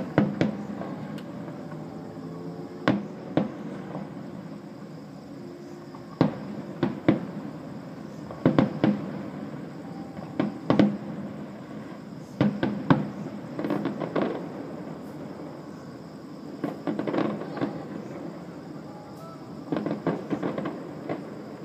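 Fireworks display: aerial shells bursting in irregular sharp bangs, some singly and some in quick clusters of two or three, with several seconds between groups.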